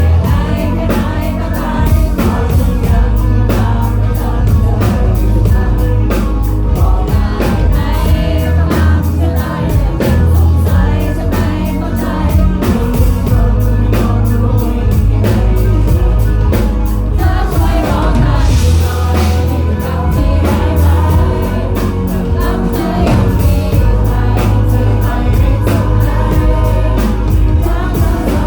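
Live band music: singing over a steady drum beat, bass and guitars, loud and bass-heavy.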